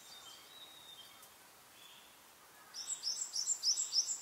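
Songbird chirping in a quiet forest: faint thin whistles in the first second, then a fast run of short, sharp chirps, about five a second, from about three seconds in.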